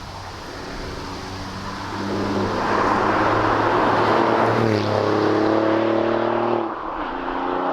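Alfa Romeo Giulia Quadrifoglio's twin-turbo V6 exhaust under acceleration, growing louder about two seconds in, with a brief dip in the engine note near the end before it picks up again.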